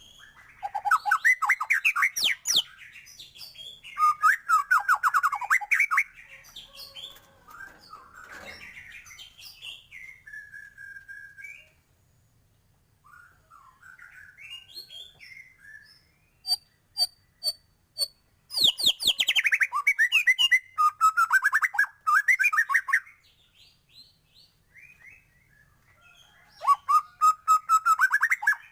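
White-rumped shama (murai batu) singing loudly, its song full of varied phrases. It comes in bursts of rapid trills and quick repeated notes, several seconds at a time, with short pauses between them.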